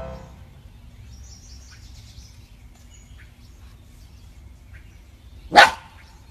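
A dog barks once, sharply and loudly, near the end, after several seconds of faint background.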